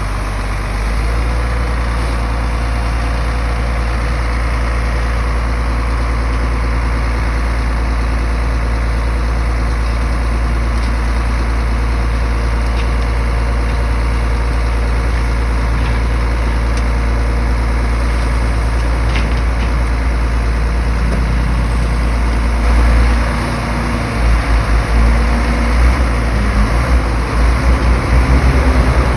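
Diesel engine of heavy earthmoving machinery running steadily with a deep low rumble. About three-quarters of the way through, the rumble turns uneven and pulsing.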